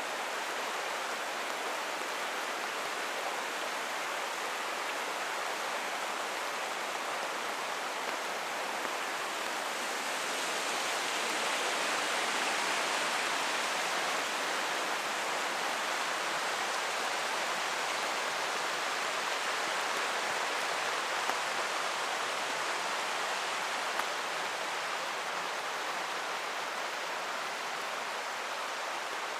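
A forest creek running steadily, with rain falling. The rush of water grows a little louder about ten seconds in, then eases off later.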